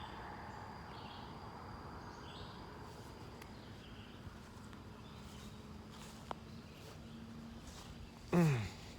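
Quiet outdoor background with faint, scattered bird chirps, a single sharp click about six seconds in, and near the end a brief falling hum or grunt from a person's voice.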